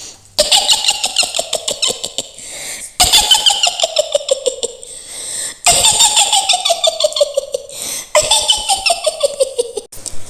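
Mak Lampir's witch cackle: a woman's high cackling laugh, made of rapid pulsing 'hi-hi-hi' notes that slide down in pitch, heard four times in long runs.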